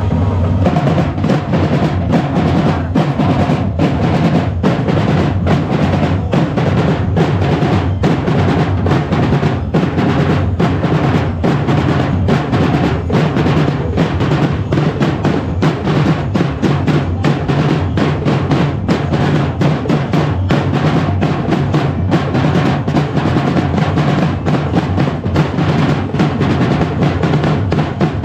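Festival percussion band drumming a fast, steady rhythm of bass drums and snare-like rolls.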